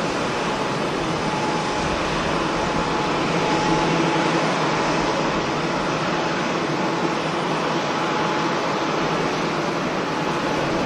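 Jet airliner engines running: a steady roar with faint steady whining tones in it.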